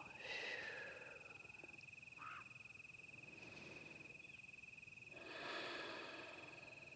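Faint, steady high-pitched insect trill, a cricket chirping continuously. Two soft breaths are heard, one at the start and a longer one about five seconds in.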